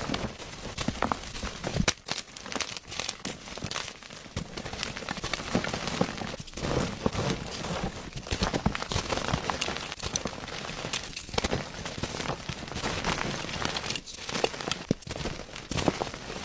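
Gym chalk being crushed, a continuous dense crunching and crackling of the dry chalk crumbling apart.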